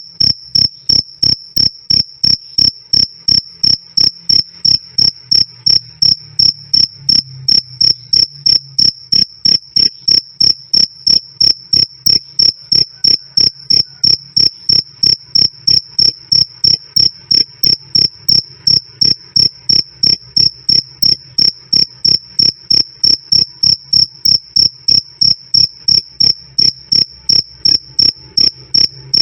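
A male cricket chirping loudly and clearly: a steady, even train of high, pure-toned chirps at about three a second, unchanging in pitch and pace.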